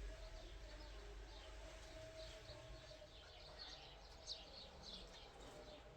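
Faint bird chirping: many short, high chirps, more of them in the second half, over a low steady hum.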